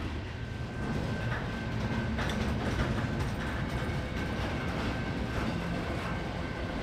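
Double-stack container freight train rolling past: a steady rumble of wheels on rail, with a few clacks over rail joints and a faint steady high ring.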